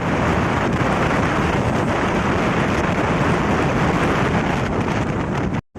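Wind rushing over the microphone of a motorcycle in motion, a steady loud rush that buries the bike's engine. It cuts out completely for a moment near the end.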